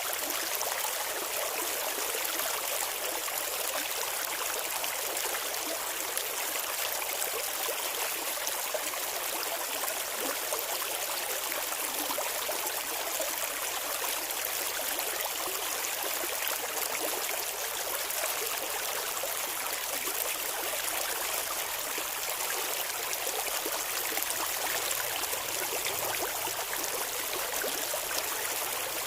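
Shallow stream water flowing and babbling over rocks, a steady even rush.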